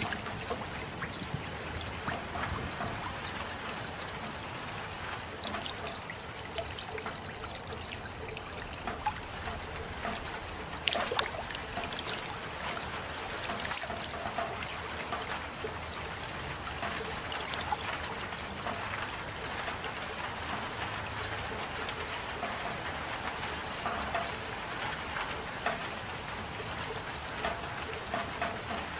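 Steady rainfall with many scattered drips and drops ticking through the even hiss of water, a few louder drops about eleven seconds in.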